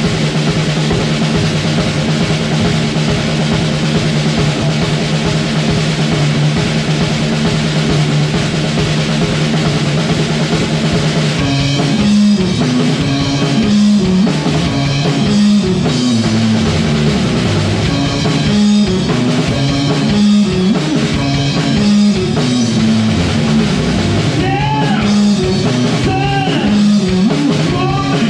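Live rock band playing: guitar holds a steady sustained chord for about eleven seconds, then the drums and full band come in with a driving beat. Singing begins near the end.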